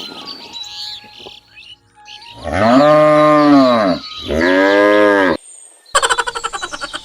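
A cow mooing twice: two long, low calls that rise and then fall in pitch, the second shorter. Near the end comes a rapid, high chirping trill.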